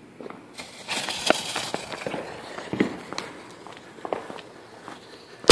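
Consumer firework mortar being lit: the fuse hisses and crackles for about a second and a half, followed by scattered footsteps and small clicks, then a sharp bang right at the end as it fires.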